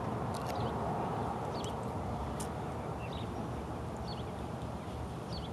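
Small birds chirping in short, irregular high calls over a steady low rumble of outdoor background noise.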